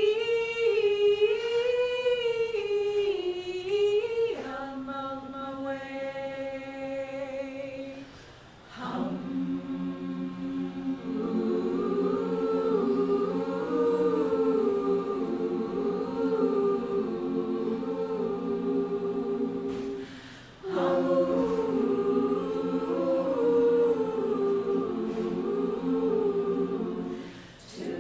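A cappella choir singing held chords in several voice parts, the notes sustained and shifting together, with two brief pauses about eight and twenty seconds in.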